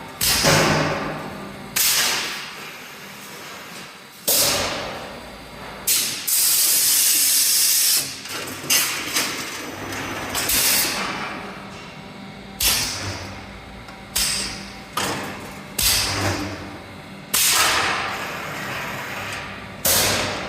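Lattice girder making machine working through its cycle: a series of sudden metallic strokes, each fading away over about a second, coming every one to two seconds at an uneven pace. About a third of the way in there is a loud, steady hiss lasting roughly two seconds.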